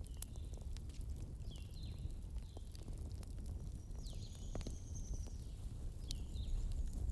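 Fireplace fire burning with a steady low rumble and scattered sharp crackles and pops. Faint high gliding whistle-like notes come and go.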